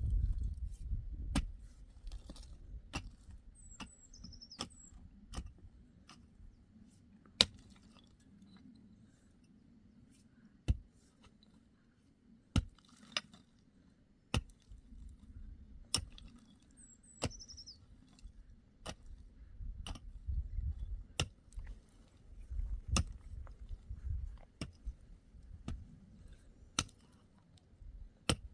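Sharp single knocks at irregular intervals of a second or two, like hand-tool blows on material, over a low rumble, with a small bird chirping briefly three times.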